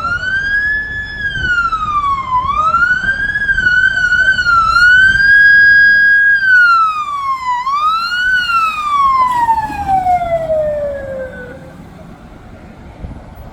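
Emergency vehicle siren wailing, its pitch rising and falling several times with a brief warble. Near the end it glides down and stops.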